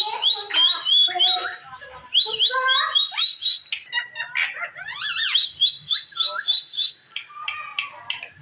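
Indian ringneck parakeet chirping: runs of short rising whistled notes, about four a second, with a harsher tangle of sweeping calls about five seconds in.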